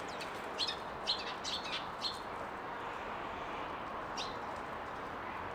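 Small garden birds chirping: a quick run of short, high chirps in the first two seconds and a single chirp about four seconds in, over a steady background noise.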